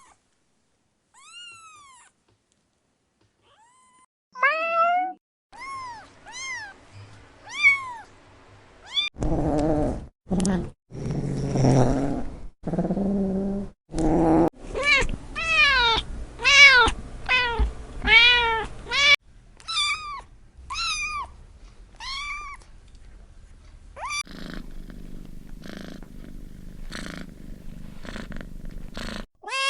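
Kittens meowing over and over: short, high meows that rise and fall in pitch, with a steady low purr under some stretches.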